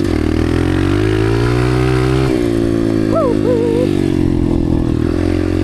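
Dirt bike engine running under throttle, its note rising and falling, with a sudden drop a little over two seconds in as it shifts gear.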